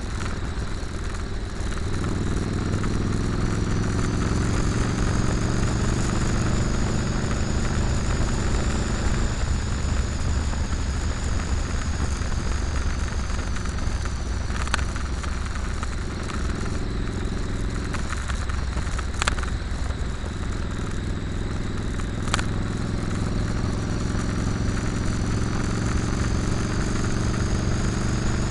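Motorcycle engine running while riding, its pitch shifting up and down several times with the throttle. Three brief sharp clicks come in the second half.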